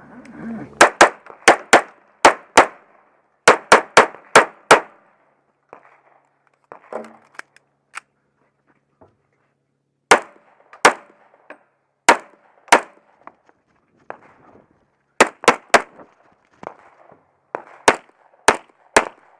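Pistol shots fired in quick strings during a timed defensive-pistol course of fire, about two dozen sharp reports. There is a pause of several seconds in the middle with only faint handling sounds before the shooting resumes.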